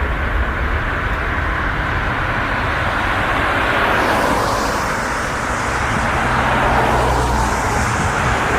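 Jet airliner passing, a loud steady rush of engine and air noise over a low rumble, turning brighter and hissier about halfway through.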